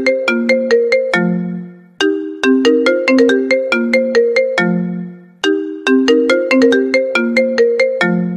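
iPhone ringtone playing on a loop: a quick melody of short, ringing pitched notes. It repeats about every three and a half seconds, and each pass ends on a lower, longer note.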